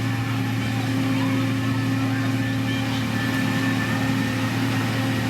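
Diesel engine of a heavy road-construction machine running steadily, holding an unchanging pitch.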